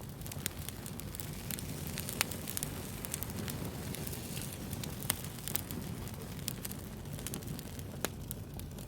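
Wood bonfire burning with a steady low rumble and frequent sharp crackles and pops, the loudest pops about two and five seconds in.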